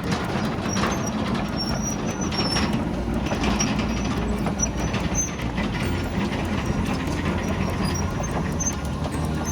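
Tracked excavator travelling, its diesel engine running steadily under a continuous clatter of steel track links, with brief high squeaks.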